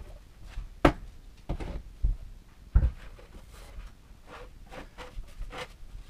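Wooden bookcase parts being handled and fitted together: irregular knocks and clunks, the two loudest about a second in and near three seconds in, with softer scraping and handling noises between.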